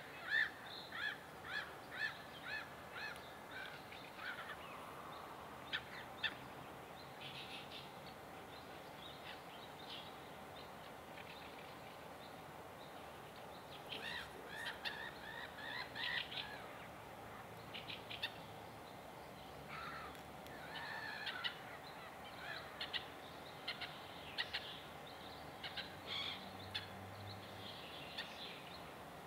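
Wild birds singing and calling in several phrases of short, rapidly repeated high chirping notes, with quieter stretches between.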